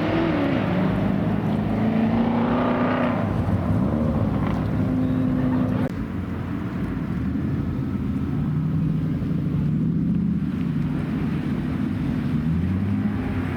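Car engine running with its pitch rising and falling several times as it is revved, with a drop in level about six seconds in.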